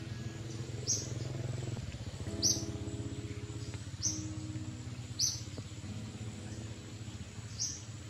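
Five short, high bird chirps at uneven intervals, over a low steady hum and soft held notes.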